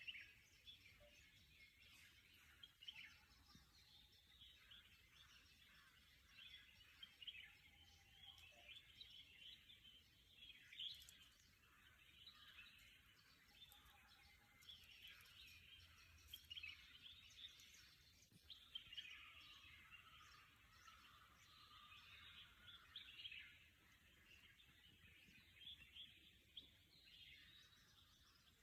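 Faint chorus of small birds chirping, with many short calls overlapping without a break.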